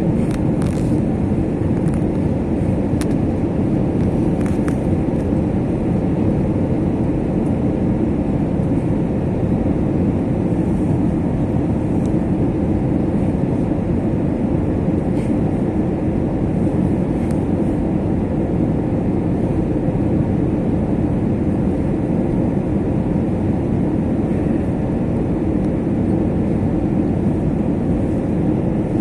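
Steady cabin noise of an Airbus A321 airliner: engine and airflow noise heard from inside the cabin, holding at one level throughout.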